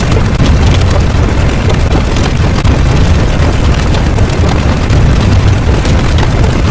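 Loud, continuous deep rumble with crackling all through and no pitched tones: a sound effect of the explosion or heavy-engine kind.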